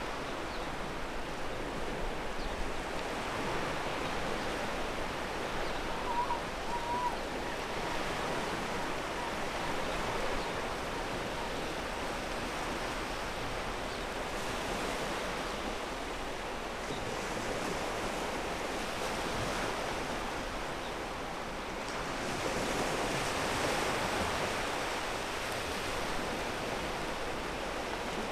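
Ocean waves breaking and washing up a pebble beach, a steady rush of surf that swells louder about 23 seconds in.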